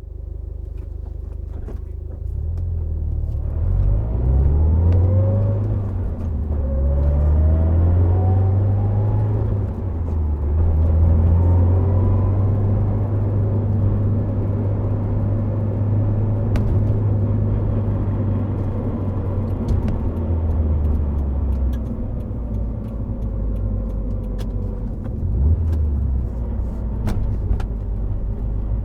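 Subaru Impreza WRX STI Spec C's turbocharged flat-four engine with an A-RM aftermarket exhaust, pulling up through two gears with rising pitch about four and seven seconds in, then cruising steadily with road rumble.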